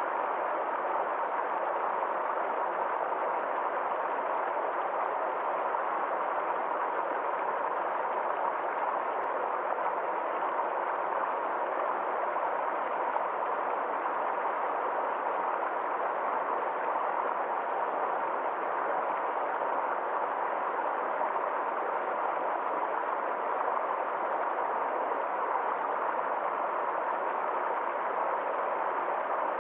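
Small forest stream flowing, a steady unbroken rush of water.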